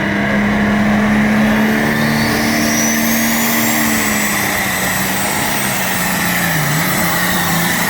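Multi-turbocharged 505-cubic-inch pulling tractor engine running hard at full throttle under load as it drags the weight sled. A high turbo whistle rises about two seconds in and then holds over the steady engine note.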